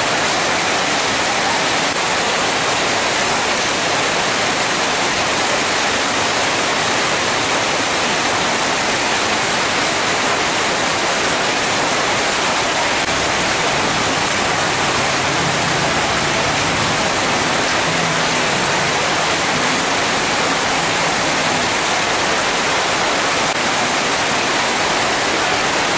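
Heavy rain falling steadily, a dense, even hiss of rain splashing into a flooded street and pattering on tarpaulin awnings.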